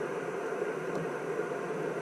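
Amateur HF transceiver's speaker giving out steady receiver hiss and band static, with no signal on the frequency, between over-the-air transmissions. A faint tick comes about a second in.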